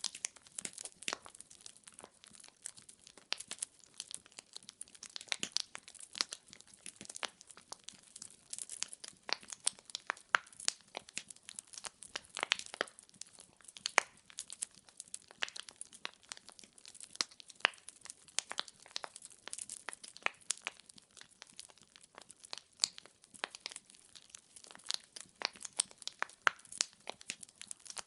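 Wood fire crackling. Burning firewood pops and snaps irregularly, several times a second, over a soft hiss.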